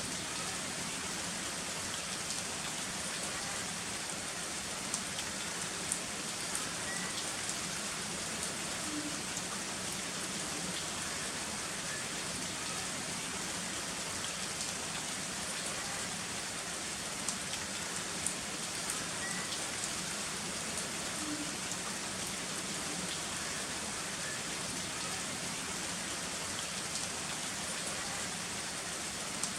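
Heavy rain falling steadily, an even hiss of rain with scattered sharper drop ticks.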